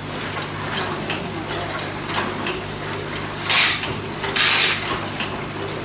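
Chewing gum overwrap packaging machine running with a steady mechanical hum and repeated clicks, with two short loud hisses a little past the middle.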